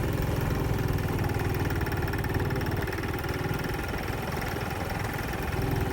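Motorcycle engine running steadily with an even, rapid firing beat.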